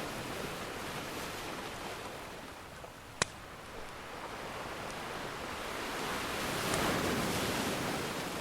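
Ocean surf washing steadily, with one wave surging in louder near the end. A wood fire crackles alongside, with one sharp pop a few seconds in.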